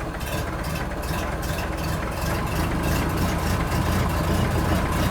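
Tractor engine running steadily, with a low, rapidly pulsing beat.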